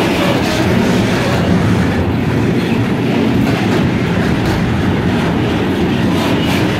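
Freight train rolling past at close range: a loud, steady rumble with the wheels clacking over rail joints.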